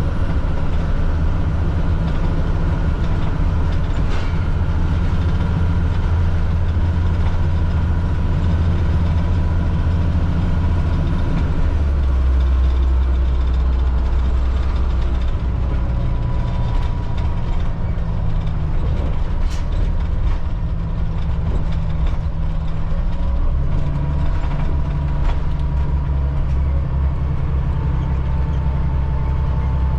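Cat C7 inline-six diesel of a Blue Bird All American FE school bus running steadily under way. The engine note steps down about a third of the way through and shifts again twice later.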